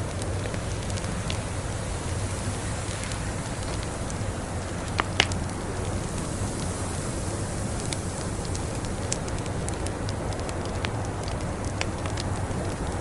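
Wood fire crackling with scattered small pops and two sharp, louder pops about five seconds in, over a steady hiss of a snowstorm.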